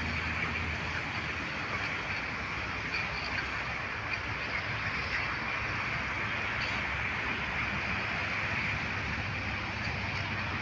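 A steady rushing noise with a low hum underneath, unchanging throughout.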